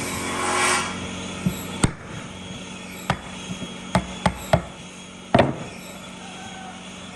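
A series of irregular, sharp knocks, like a tool striking wood during workshop work, with the loudest knock about five seconds in. A short rushing noise comes in the first second, and a faint low hum runs underneath.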